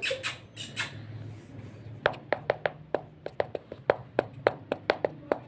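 A few brief scratchy noises, then from about two seconds in a rapid, fairly even series of sharp taps or clicks, about three to four a second.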